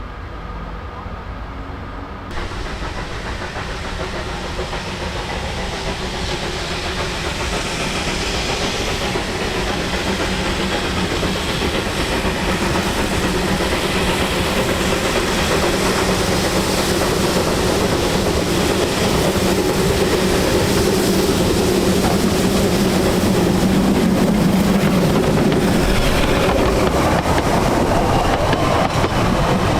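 Narrow-gauge steam train running on the track with a steady hum and hiss, growing steadily louder over the stretch.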